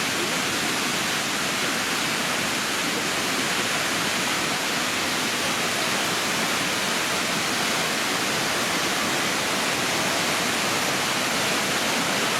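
A waterfall: a loud, steady rush of falling water with no breaks.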